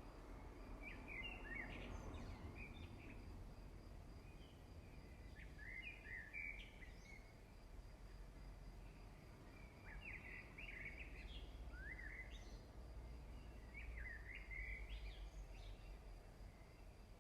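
Faint bird song: a short chirping phrase repeated about every four seconds over a low steady hum.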